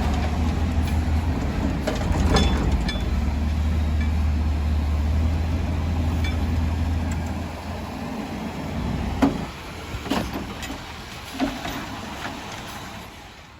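Garbage truck engine running with a steady low drone that fades away after about seven seconds, with several sharp clanks, the loudest about nine seconds in.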